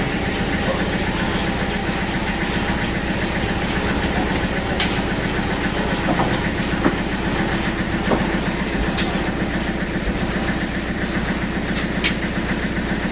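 Sawmill band saw and its drive running steadily: a low mechanical drone with a fast, even pulse, with a few sharp clicks scattered through.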